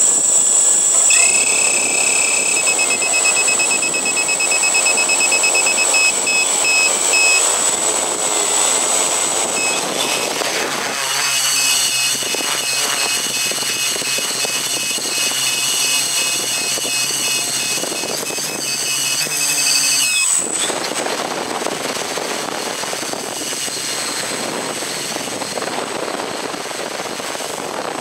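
Multirotor drone's electric motors and propellers running steadily, a broad rushing noise with high whining tones over it. The whine changes pitch and pattern about ten seconds in and again about twenty seconds in.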